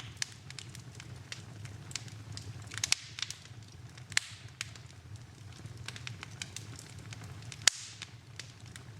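Wood fire crackling in a fireplace: irregular sharp pops and snaps, with one louder pop near the end, over a steady low rumble.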